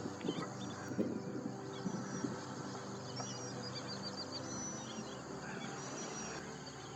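Wild birds calling: several short, thin high whistles and a brief rapid trill about three seconds in, over a faint steady background.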